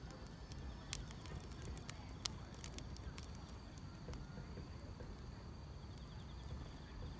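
Wood fire crackling with sharp, irregular pops, over a steady high trill of insects chirping in the grass and a low rumble.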